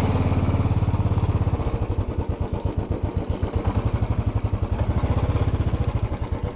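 Motorcycle engine running at idle with a steady, even beat of firing pulses.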